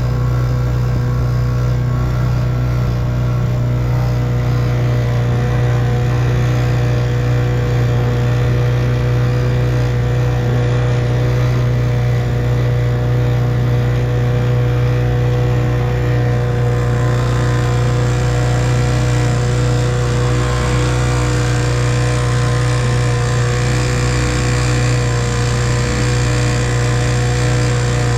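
1958 Evinrude 3 hp two-stroke outboard motor running at a steady, unchanging speed. A higher hiss joins it past the middle.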